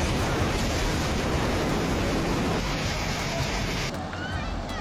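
Heavy hail pelting down on a roof, a dense, steady clatter of hailstones. About four seconds in it cuts to a slightly quieter, duller downpour with a few faint short chirps.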